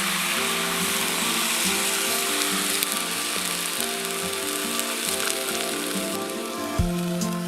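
Food sizzling as it fries in a pan, a steady crackling hiss, with background music playing over it.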